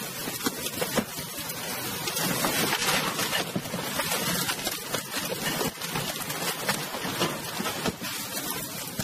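Heavy rain and storm wind beating on a car, heard from inside the cabin: a dense, steady rushing noise peppered with many small hits.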